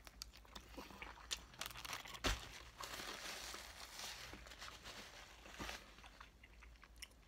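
A person chewing a mouthful of bunless double cheeseburger, with wet mouth clicks and one sharper click a little over two seconds in. In the middle comes the rustle of a paper napkin being wiped across the mouth.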